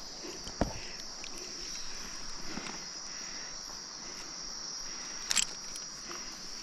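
Steady high-pitched chorus of nocturnal rainforest insects, with a few light knocks and a sharp click about five seconds in.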